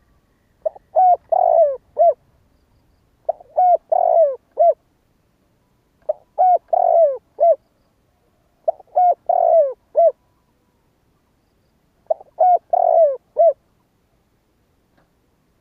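Spotted dove cooing: five phrases of its song, each a quick run of short notes around one longer, fuller coo and a short closing note, repeated about every three seconds.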